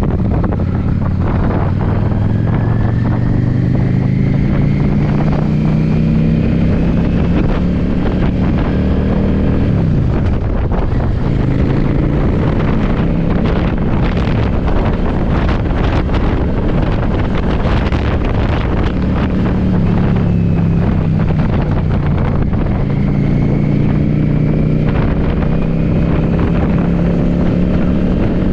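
Yamaha V-Star motorcycle's V-twin engine pulling under way, its pitch climbing, dropping about ten seconds in and climbing again near the end. Heavy wind buffets the microphone, strongest in the middle.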